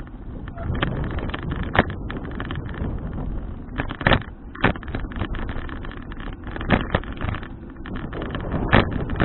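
Wind rushing over the microphone of an action camera on a moving bicycle, a steady rumble, with about five sharp knocks as the folding bike rattles over bumps.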